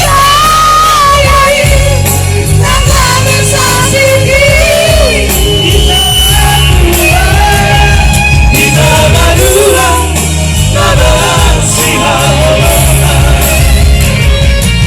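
Batak pop song sung by a vocal trio over a band backing with a steady bass and drum beat.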